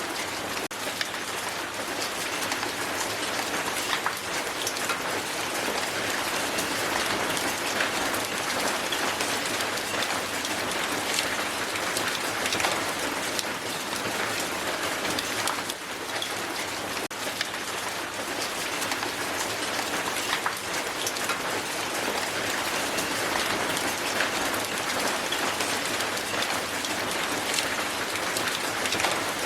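Heavy hail pelting down on a hard surface: a dense, steady patter with many sharp individual ticks of hailstones striking.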